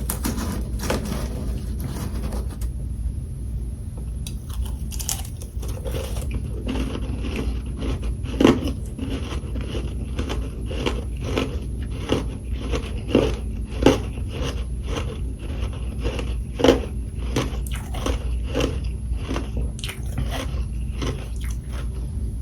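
Close-up chewing of a mouthful of freezer frost: a regular run of crunches, about two a second, over a steady low hum.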